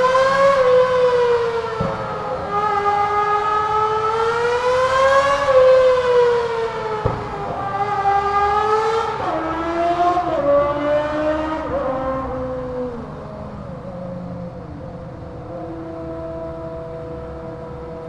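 Kawasaki ZR250's small inline-four engine with no muffler, revving hard through the gears with its pitch rising and falling, echoing in a road tunnel. Two sharp cracks come about two seconds and seven seconds in. Near the end it settles to a steadier, quieter run.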